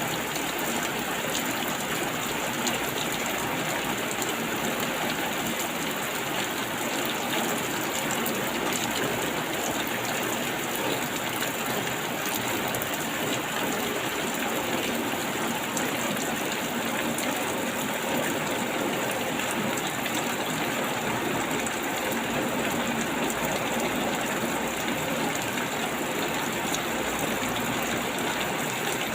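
Steady rainfall, an even hiss of rain with no pauses or distinct drops.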